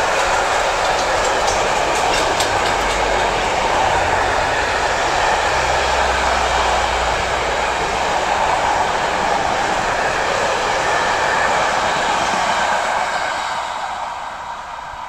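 A train passing on the rails: a steady, loud rush of wheels on track, with a few sharp clicks early on and a low rumble through the middle, fading away near the end.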